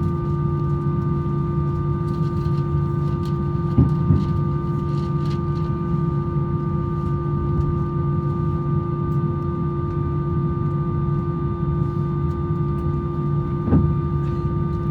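Steady cabin hum of an Airbus A321-200 on the ground, a low rumble with several fixed whining tones, broken by two short knocks, one about four seconds in and one near the end.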